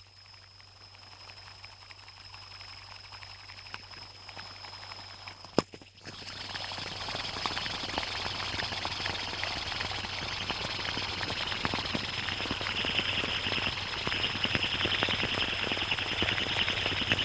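Fidget spinner: a sharp click about five and a half seconds in, then it spins with a dense, fine rapid ticking and whir that grows louder and holds steady.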